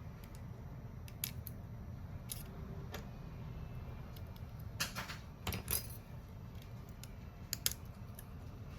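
Scattered small clicks and taps of hand tools and phone parts being handled, with a cluster of louder clicks about five seconds in and another sharp click near the end, over a steady low hum.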